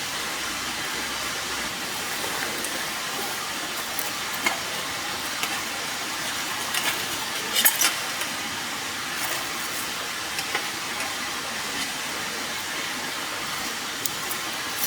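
Wood campfire crackling with scattered sharp pops over a steady hiss, the loudest pops about seven and a half seconds in.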